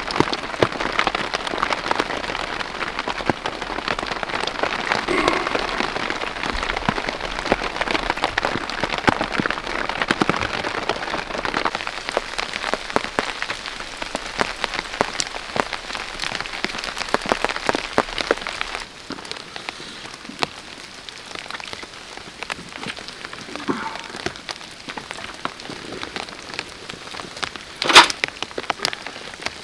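Rain falling and pattering steadily on a surface, thick with small drips. About two-thirds of the way through it abruptly turns quieter, and a single sharp knock sounds near the end.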